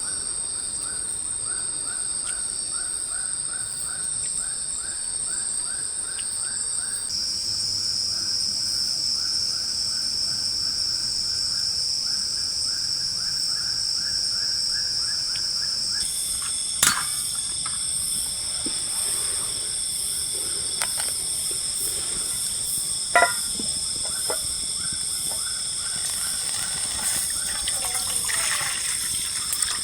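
A night-time chorus of forest insects: several steady high-pitched drones, with a lower rhythmic chirping at about three pulses a second. The mix changes abruptly twice, and a few sharp clicks stand out in the second half.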